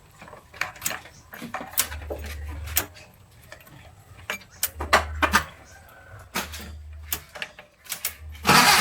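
Suzuki truck engine being cranked in short tries: brief spells of low rumble broken up by clicks and knocks, with a louder burst near the end.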